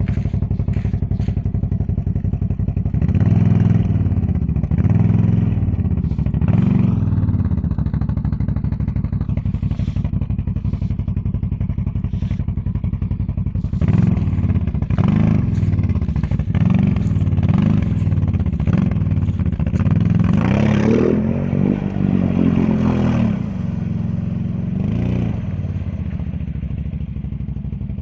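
Motorcycle engine running, its pitch rising and falling again and again as the throttle is opened and closed, with a longer, higher rev about three quarters of the way through.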